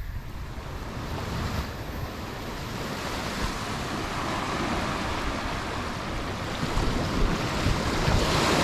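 Waves washing in on the beach, with wind buffeting the microphone; the surf grows louder, and a bigger wave breaks near the end.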